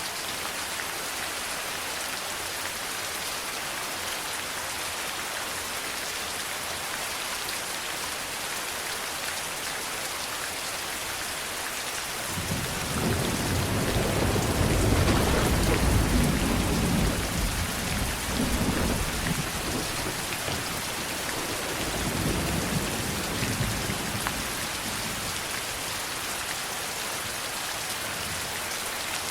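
Steady rain falling, with a long roll of thunder starting about twelve seconds in, building to its loudest a few seconds later and rumbling away, then a second, weaker rumble near the end.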